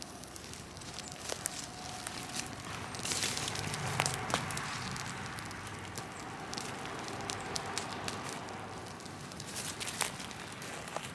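Large open bonfire of cut trees and brush burning, with a steady rush of flame and many sharp crackles and pops from the burning wood. The crackling is busiest about three to four and a half seconds in.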